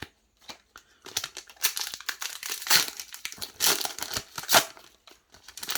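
Foil wrapper of a Yu-Gi-Oh! Rush Duel booster pack crinkling and tearing as it is opened, in irregular crackles lasting about four seconds.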